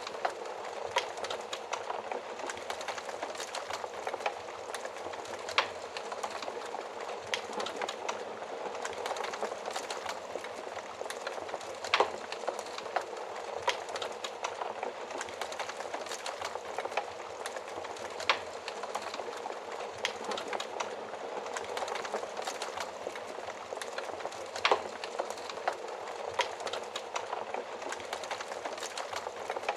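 Wood fire burning, with a steady hiss and frequent irregular crackles and sharp pops.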